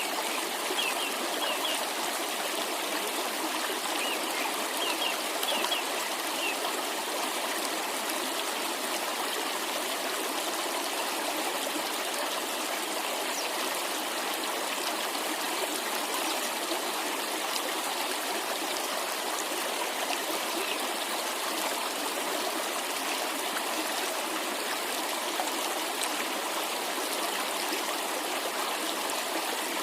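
Water of a cascading mountain stream running steadily. A few short, high bird chirps come in the first seven seconds.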